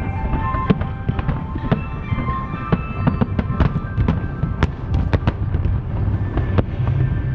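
Aerial fireworks going off in quick succession, many sharp cracks and bangs over a continuous low rumble, with music playing underneath.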